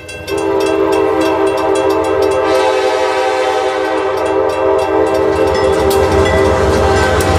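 Diesel locomotive's air horn blowing one long chord, with the wheels clicking over rail joints and the low rumble of the passing train growing near the end.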